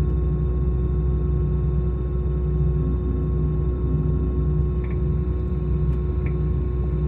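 Steady cabin noise inside an Airbus A319 on the ground before takeoff: a constant low rumble with a steady hum.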